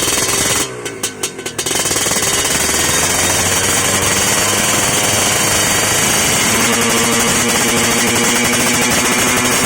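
Kawasaki Ninja SS two-stroke single revving through an open racing split exhaust: choppy bursts at first, then held steadily at high revs from about two seconds in, the pitch creeping up near the end.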